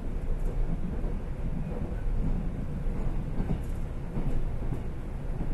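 Passenger train car in motion, heard from inside the cabin: a steady low rumble of wheels on rails and running gear, with a few faint clicks.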